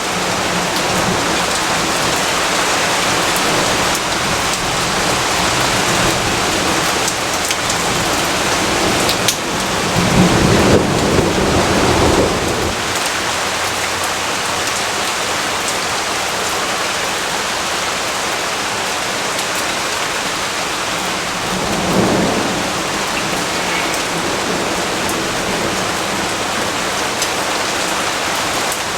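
Steady heavy rain falling, with a low rumble of thunder about ten seconds in that lasts a couple of seconds, and a shorter, weaker rumble a little past twenty seconds.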